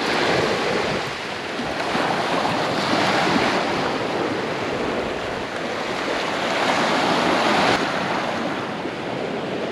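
Ocean surf washing onto the beach in swells that rise and fall several times, with wind buffeting the microphone.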